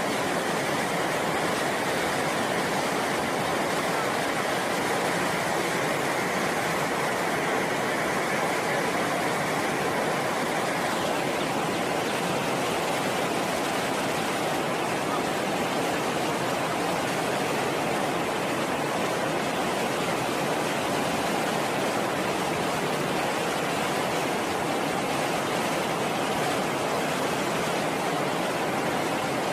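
High, fast-flowing river water rushing in a steady, even roar, with a brighter hiss in it that fades out about ten seconds in.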